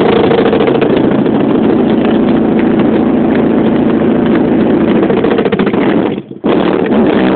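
Honda VTEC car engine running loud and steady, with a brief drop in sound about six seconds in before it picks up again.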